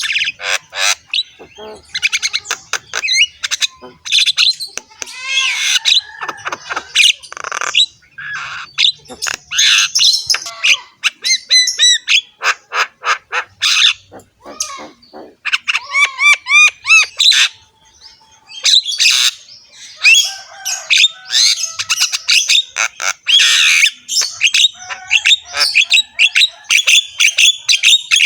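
Javan myna (jalak kebo) singing on and on with a harsh, rough voice: a fast, varied jumble of rasping notes, clicks and gliding whistles.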